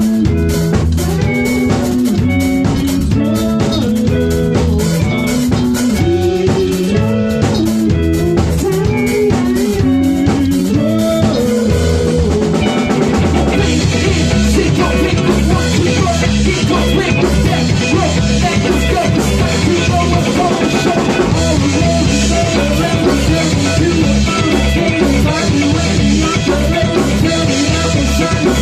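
A rock band playing live, with drum kit and guitar. About twelve seconds in, the music changes to a denser, fuller section.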